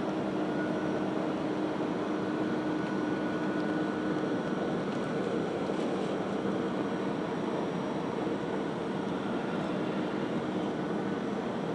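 Airbus A320 cabin noise on the way in to land: a steady roar of engines and airflow with a few steady hum tones. A low hum in the tones drops out about four seconds in.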